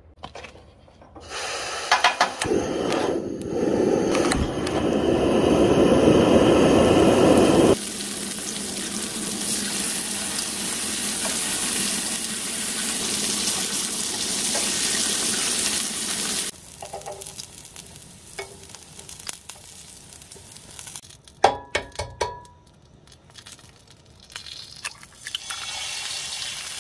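Bacon and sausages sizzling on the flat griddle of a Coleman camp stove, a dense steady hiss that drops off abruptly about halfway through. A few sharp clicks of metal tongs or an eggshell follow, then a fresh sizzle near the end as an egg lands on the hot griddle.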